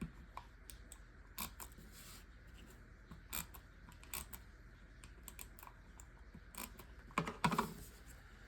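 Mini tape runner laying adhesive on small paper strips, with scattered faint clicks and taps from the runner and the paper being handled, and a short burst of louder scraping clicks about seven seconds in.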